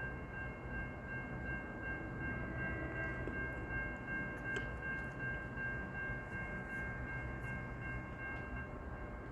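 Distant NJ Transit train approaching: a steady low rumble with several steady high tones held over it.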